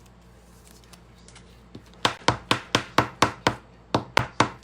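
A quick, even run of sharp taps, about four a second, starting about two seconds in.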